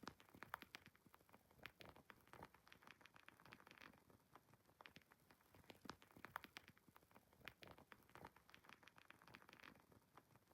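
Wood fire crackling faintly in a fireplace: irregular small pops and snaps, several a second, over a soft hiss.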